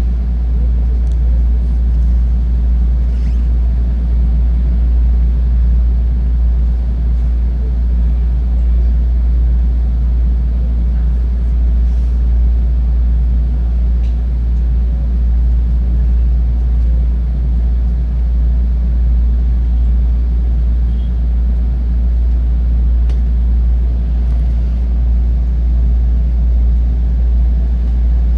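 Steady low rumble and hum of a stopped 223 series electric train's onboard equipment, heard from inside the car.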